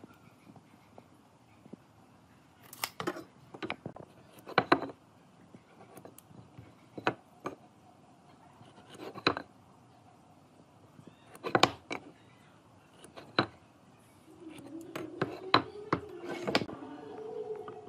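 Workshop hand work: scattered sharp knocks and clicks of tools and wood being handled, some in quick clusters. About fifteen seconds in, a steady pitched hum starts and continues under further clicks.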